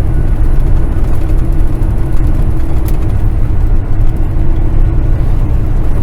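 Semi truck cruising on the highway, heard from inside the cab: a steady, heavy low drone of diesel engine and road noise.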